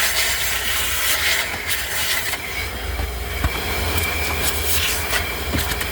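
Car-wash vacuum running with a steady roar and hiss as its nozzle sucks at the car's back seat, with a couple of light knocks.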